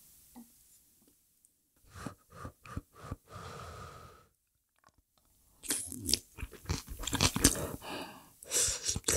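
Close-miked chewing of a Korean home meal of stir-fried pork, seasoned chives and rice: a short run of wet chewing, a brief held sound, a pause, then louder, denser chewing with crunchy bites in the second half.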